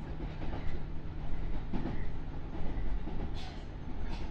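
Running sound heard inside a JR 201 series electric train car in motion: a steady low rumble of wheels on rail with a low hum and irregular clickety-clack. Two brief sharper clicks come near the end.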